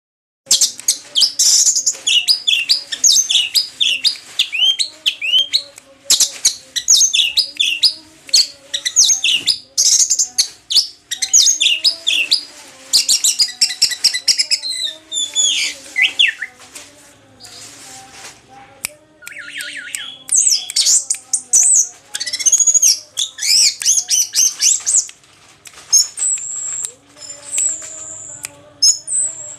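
Orange-headed thrush singing a rapid, varied song of chirps and whistled phrases in bursts with short pauses, in full song after its moult.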